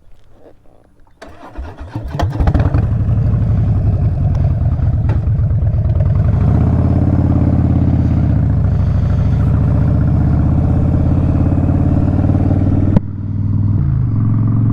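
Harley-Davidson Street Bob V-twin with a Vance & Hines exhaust cranked over on the starter about a second in. It catches and runs loud and steady at idle, with a brief dip and rise in pitch midway and a sharp click near the end.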